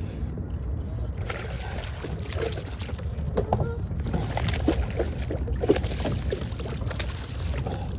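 Water splashing and sloshing in short, irregular bursts from about a second in, over a steady low wind rumble on the microphone.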